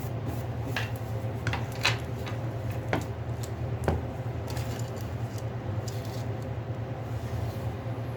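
A few small, sharp clicks and taps from a smartphone's parts and opening tools being handled on a workbench, over a steady low hum.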